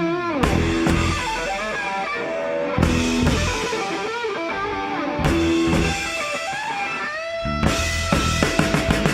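Live rock band playing: electric guitar carrying a lead line with bent notes over bass and drums. The drums pick up into quick, even hits near the end.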